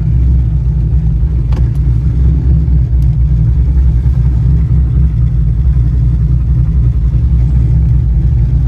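Cammed 2016 Chevrolet Camaro SS's 6.2-litre LT1 V8 idling with a loud, choppy lope from its aftermarket camshaft. The pitch holds steady, with no revs.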